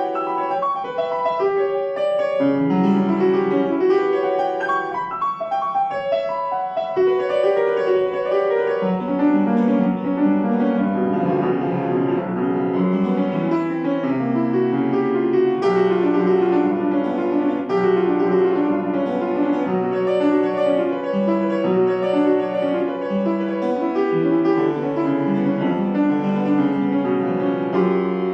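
Solo piano playing a slow classical-style piece, with held chords and melody notes throughout.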